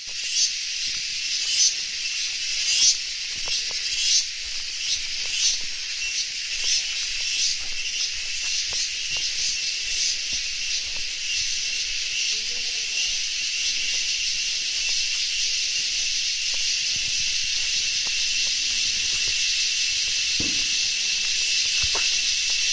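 A dense chorus of crickets chirping, with a high ringing buzz. The calls pulse distinctly for the first ten seconds or so, then merge into a steady, unbroken trill.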